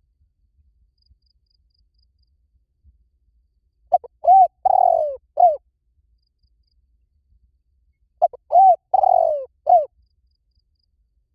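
Spotted dove cooing: two calls about four seconds apart, each a short run of four or five low, mellow coos, the longest note near the middle sliding down in pitch.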